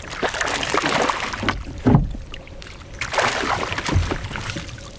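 Water splashing and sloshing beside a canoe in two surges about two seconds apart, each ending in a short low knock.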